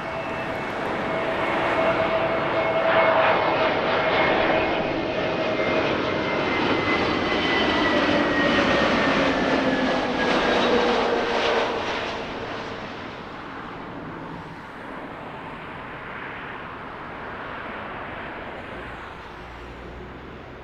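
An airliner passes close by. Its engine rush builds up, and its whining tones slowly drop in pitch as it goes past. It is loudest in the first half and then fades away.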